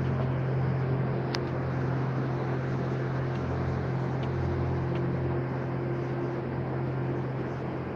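Steady rush of a flooded river, with a low steady engine hum over it that stops at the very end.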